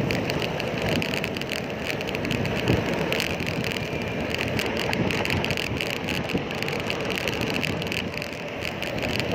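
Steady wind and road noise from a moving bicycle, the wind rushing over the microphone.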